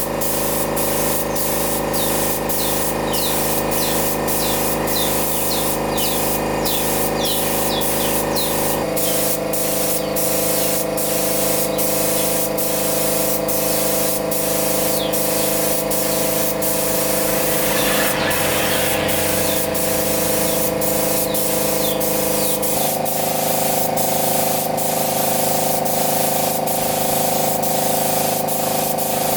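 Steady hiss of sprayed air over the hum of a running motor. The hum changes pitch abruptly about 9 seconds in and again about 23 seconds in, and faint regular ticks run throughout.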